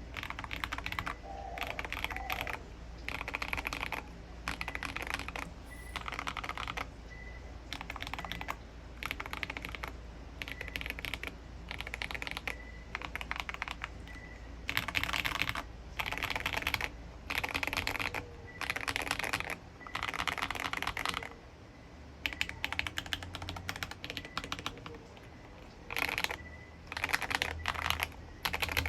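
Typing on a mechanical keyboard with lubed Akko V3 Cream Yellow linear switches and SA profile keycaps, in runs of fast keystrokes broken by short pauses.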